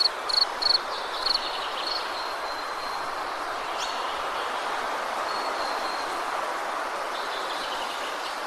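Woodland ambience: a steady, even rushing noise, with rapid high insect chirps, about three a second, that stop about two seconds in, and a single short rising call near the middle.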